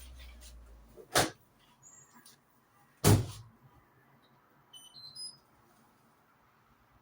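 A washing machine being loaded and shut: two sharp knocks, the second one louder, followed about two seconds later by a few faint, short rising beeps from its control panel.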